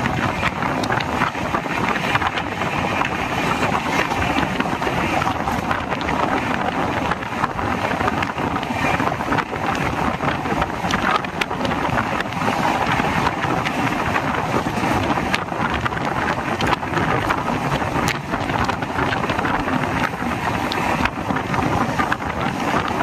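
Express train running at speed, heard from a coach: a steady rush of wheel-on-rail noise and wind.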